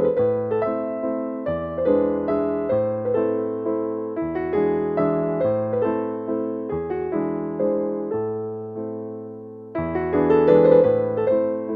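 Background music: gentle solo piano (electric piano tone) playing a calm melody over sustained bass notes, with a louder phrase starting near the end.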